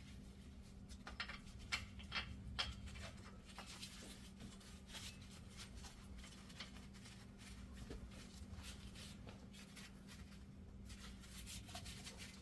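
Faint, irregular metallic clicks and rubbing of hand work while the hub bearing's bolts are started, with a few sharper ticks in the first few seconds, over a steady low hum.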